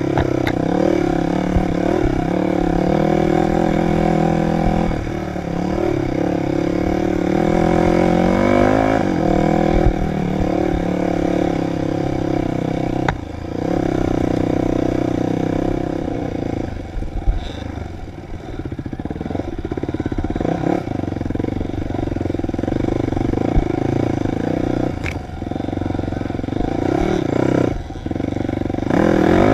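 Dirt bike engine pulling under way, its pitch rising and falling over and over with the throttle, with a few sharp knocks along the way.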